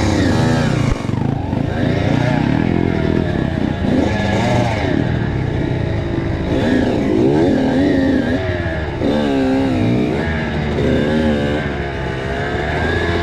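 Two-stroke engine of a Kawasaki KX85 motocross bike revving hard under the throttle, its pitch climbing and dropping several times as the rider works through the gears.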